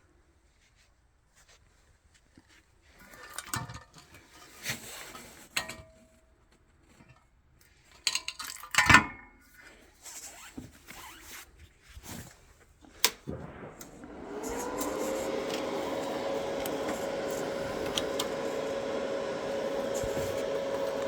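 Metal tools and parts clinking and knocking, one sharp knock loudest. Then, about two-thirds of the way in, an electric power tool starts up, its whine rising briefly before it runs steadily.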